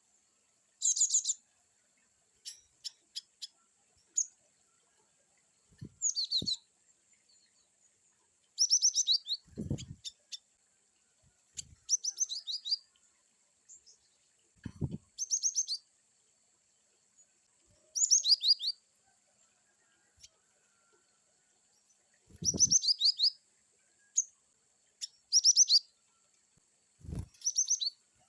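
Gelatik batu (cinereous tit) singing short, varied bursts of rapid high 'wucit' chirps, each about a second long, repeated every couple of seconds. A few brief low thumps fall between the bursts.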